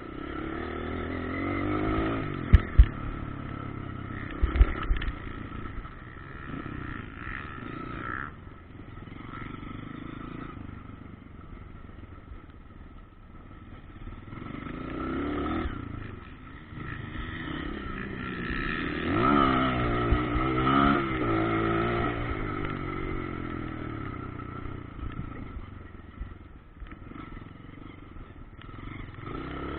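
Motocross dirt bike engines revving up and down as the bikes ride the track, rising and falling several times and loudest as one passes close about two-thirds of the way through. A few sharp knocks come in the first five seconds.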